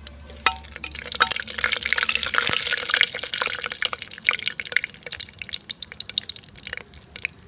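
Dry red chillies, bay leaves and cumin sizzling and crackling in hot mustard oil in a pressure cooker. The sizzle builds over the first two seconds, is loudest about two to three seconds in, then settles into scattered pops.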